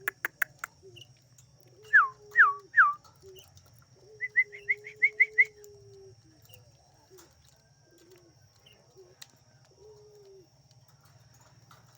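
Caged birds calling: three loud falling whistles about two seconds in, then a quick run of about eight short rising chirps, over repeated low coos of caged doves. A few sharp clicks sound at the start.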